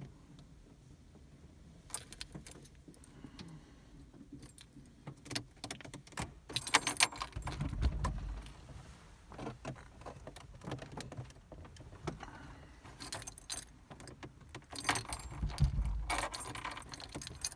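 Car keys jangling, with scattered clicks and knocks and a couple of dull thumps.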